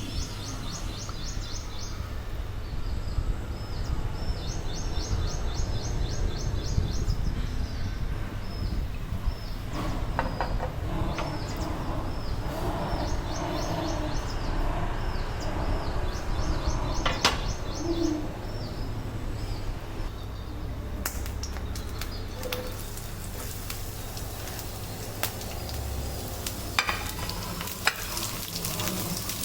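Food sizzling in a frying pan, with a few clinks and scrapes near the end. Through the first half a bird calls in runs of short repeated chirps over a steady low hum.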